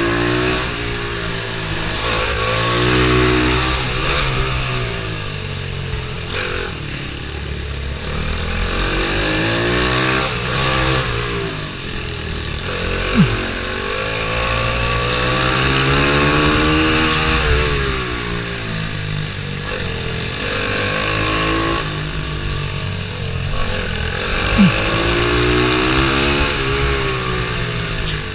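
Pitbike's small single-cylinder engine, at race pace, revving up and falling back again and again every few seconds. Two short sharp sounds stand out, one about halfway through and one near the end.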